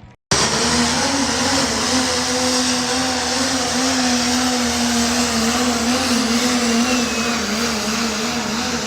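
A 4wd pulling truck's engine running loud and hard with a steady note that wavers slightly in pitch. It comes in abruptly just after the start.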